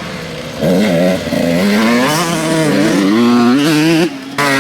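Motocross motorcycle engines revving hard under racing acceleration, their pitch climbing over and over as the riders shift through the gears. The sound gets louder about half a second in and briefly drops away just before the end.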